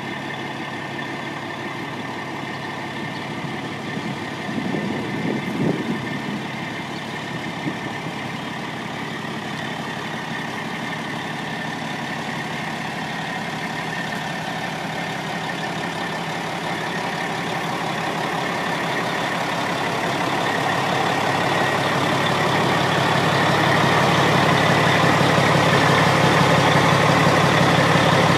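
Caterpillar diesel engine of a 1996 Ford B750 truck idling steadily, with a brief louder noise about five seconds in; the engine sound grows gradually louder over the second half.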